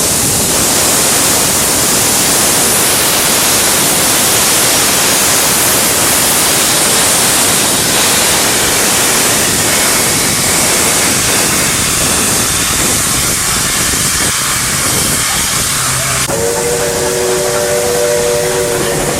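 Steam locomotive hissing loudly and steadily with escaping steam. Near the end the hiss eases and a chime steam whistle sounds a held chord of several notes for about three seconds.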